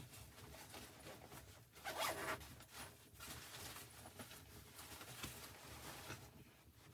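Faint, irregular rustling and scraping of fabric or gear being handled, with a louder stretch about two seconds in.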